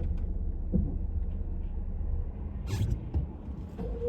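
Steady low rumble of a car's engine and tyres on the road, heard from inside the cabin, with a brief hiss about two and a half seconds in.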